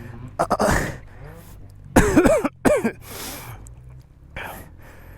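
A worn-out man breathing hard, coughing and clearing his throat, with a loud groan about two seconds in.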